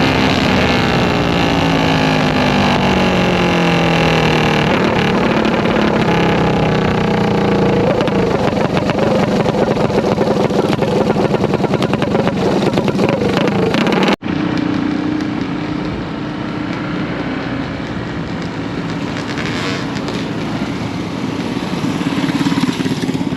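Minibike engines running hard, their pitch falling over the first few seconds. After a brief dropout about fourteen seconds in, a steadier, quieter engine keeps running.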